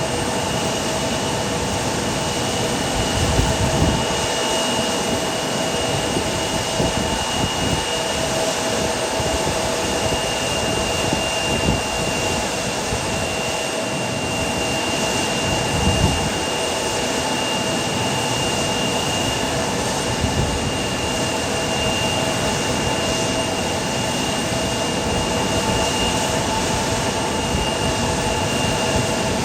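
Aircraft turbine engines running steadily, a constant whine over a broad roar, with low buffeting swells about 4 and 16 seconds in.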